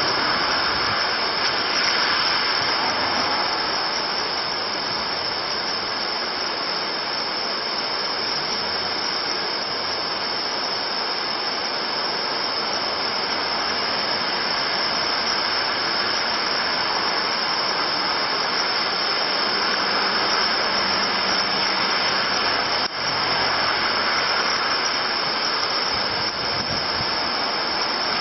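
Rain falling steadily on a wet street, with cars driving past on the wet road.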